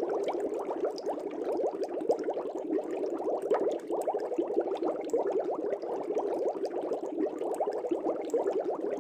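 Aquarium air bubbles rising and bursting at the surface in a steady, dense bubbling, with scattered small pops.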